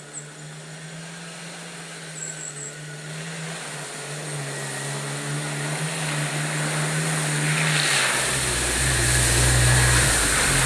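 1997 Jeep Wrangler TJ engine running, a steady hum that grows gradually louder. The pitch drops slightly and a deeper rumble comes in about eight seconds in.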